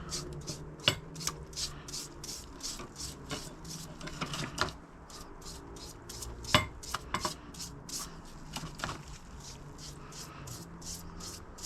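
Hand sanding of a rusty metal hydraulic jack part with fine 180-grit sandpaper: rhythmic back-and-forth rubbing strokes, about three a second, with a few sharp metallic clicks, the loudest about six and a half seconds in.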